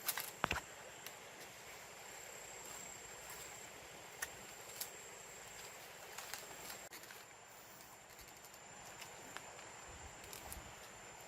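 Outdoor ambience with a steady, high, thin insect tone, a couple of sharp knocks right at the start and a few light clicks scattered through.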